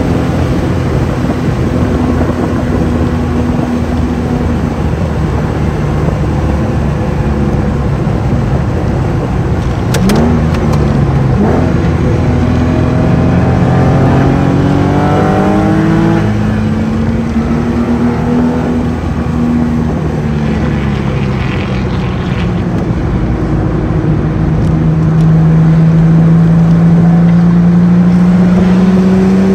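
A Porsche 996 Carrera's flat-six engine heard from inside the car at speed on track, with road and wind noise underneath. The engine note holds steady, changes sharply about ten seconds in with a quick upward sweep as the car slows for a corner, rises under acceleration, eases back around twenty seconds, then climbs steadily as it pulls away near the end.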